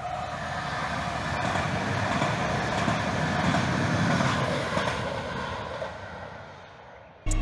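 Passenger train passing by: the rumble of its wheels on the rails builds to a peak about three to four seconds in, then fades away as it moves off.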